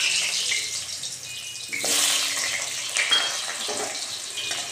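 Potato chunks sizzling in hot oil in a steel kadai, with a fresh surge of sizzling about two seconds in and again about a second later as more pieces are dropped in.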